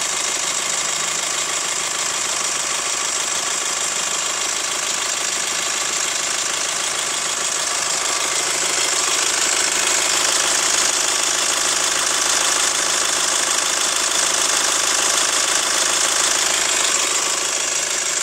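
Hyundai ix35 CRDi diesel engine idling hot with a rhythmic crunching knock, a "хрум-хрум", which the owner suspects comes from the hydraulic lifters or the timing chain tensioner. The sound gets a little louder about halfway through.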